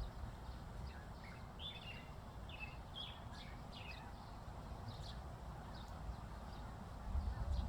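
Small birds chirping, with short high calls scattered through, thickest in the first few seconds, over a steady low rumble.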